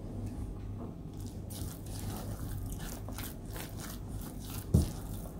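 Someone chewing a mouthful of the raw spiced coconut, tempeh and tofu mixture, a few soft crunches a second, tasting it to check the salt. One soft thump near the end.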